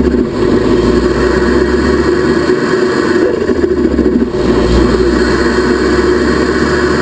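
Ford Focus ST Mk3's turbocharged engine running, easing off briefly about three to four seconds in. This fits the turbo flutter on lift-off that the car is being recorded for.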